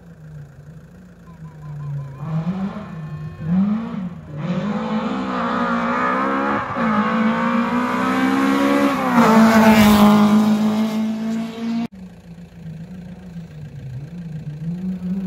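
Rally car engine revving hard and shifting up through the gears as it approaches, its pitch climbing and dropping back with each change and loudest about two-thirds through. The sound cuts off abruptly, leaving a fainter engine of a car further away.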